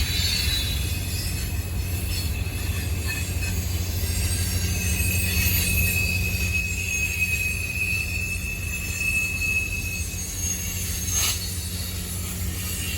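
A train rolling past with a steady low rumble, its wheels squealing on the rails in a held high tone from about a third of the way in until about three quarters through. A single sharp click or clank comes near the end.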